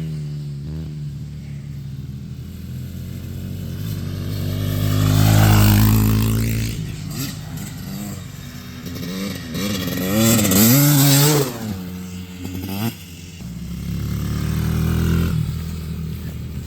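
Dirt bikes revving and riding past, the engine note rising and falling as they accelerate and shift. The loudest passes come about five seconds in and again around ten to eleven seconds in.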